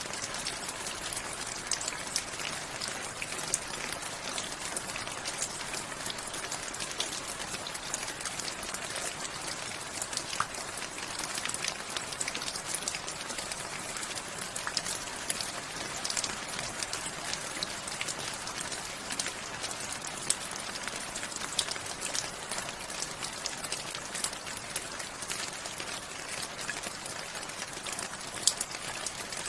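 Steady rain falling, a continuous hiss with many separate drops pattering and clicking on a hard surface.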